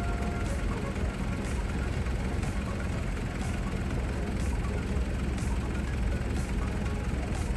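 Large diesel engine idling steadily, a low rumble, with a faint tick about once a second.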